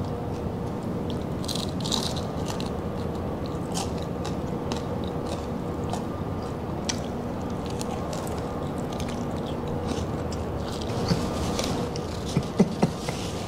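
A person biting and chewing crispy pata (deep-fried pork leg), the fried skin giving off scattered sharp crunches, over a steady background hum.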